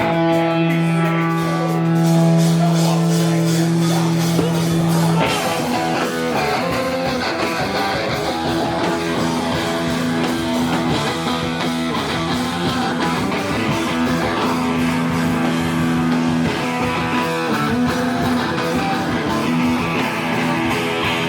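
Live rock band playing, led by guitar: a held chord rings for about the first five seconds, then the band plays on at full, busier strength.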